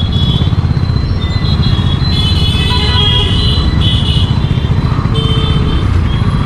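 Motorcycle on the move with a steady low rumble of engine and wind on the microphone. A few short high-pitched sounds come in about two and five seconds in.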